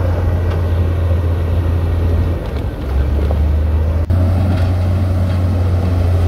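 Heavy diesel engine of earthmoving machinery running with a steady low drone, with a brief dropout about four seconds in.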